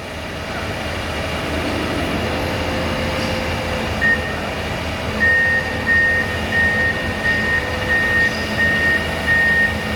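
Komatsu PC210 hydraulic excavator's diesel engine running under load as it backs up. From about four seconds in, its travel alarm beeps steadily at about one beep every 0.7 seconds.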